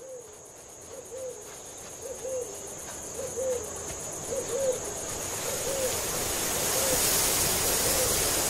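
A bird's hooting call, short hoo notes often in pairs, repeated about once a second and fading in the second half, over a steady high insect trill. A hiss grows louder toward the end.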